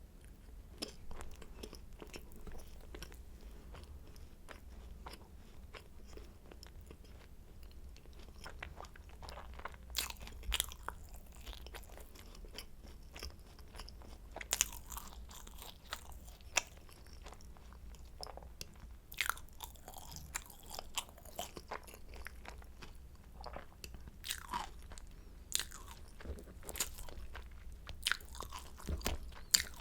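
Close-miked eating of a croissant: biting and chewing the flaky pastry, with irregular sharp crunches and crackles, the loudest ones clustered in the second half.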